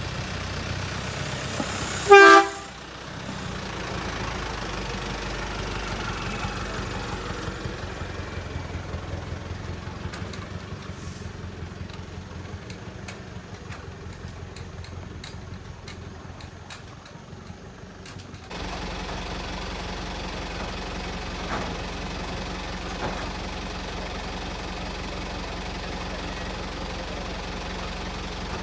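Heavy truck engine running with a steady rumble, with one short, loud horn blast about two seconds in. About two-thirds of the way through the sound changes abruptly to a steadier, deeper idling hum.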